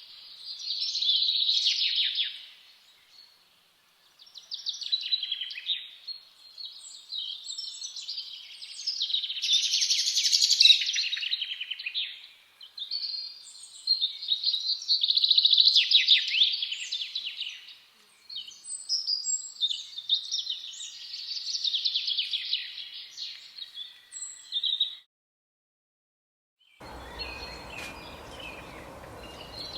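A songbird singing in repeated phrases of quick, high chirping notes, each phrase lasting a second or few. The song cuts off abruptly near the end, and after about two seconds of dead silence a steady hiss of outdoor ambience begins, with faint bird calls in it.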